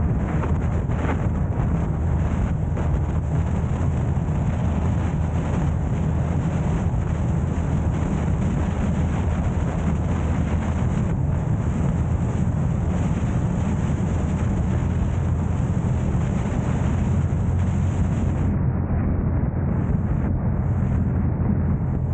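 Steady road and wind noise of a car driving, a continuous low rumble with hiss on top. The high hiss drops away about 18 seconds in.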